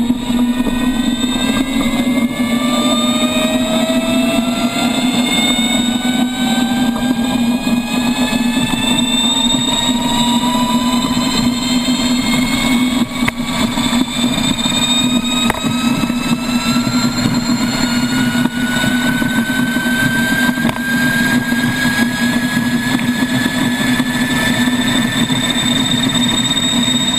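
Lightning LS-218 electric motorcycle's drivetrain whine rising slowly and steadily in pitch as the bike gains speed, over a steady low hum of running noise.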